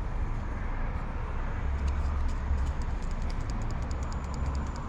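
Steady low rumble and hiss of urban background noise, with faint regular ticking in the second half.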